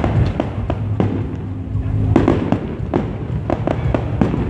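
Aerial fireworks going off: an irregular run of bangs and crackles, thickest about two seconds in and again near the end, over a steady low hum.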